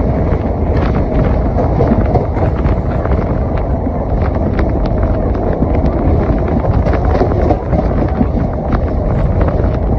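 Moving passenger train heard from aboard: a steady rumble of the running train, with wind buffeting the microphone.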